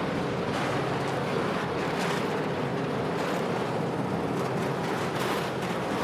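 Steady rushing noise of blizzard wind, with a low hum underneath.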